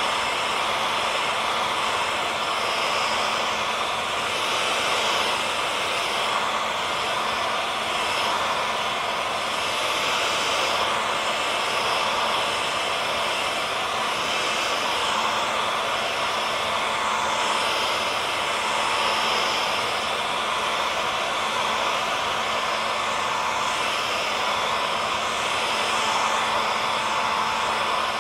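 Hair dryer running steadily: an even rushing blow with a faint steady motor hum underneath.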